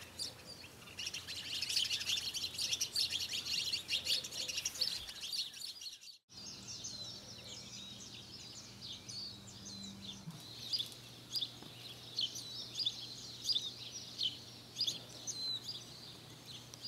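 Small birds chirping in a dense, busy chorus of quick high twitters. After a brief break about six seconds in, the birds go on with fewer, separate short chirps.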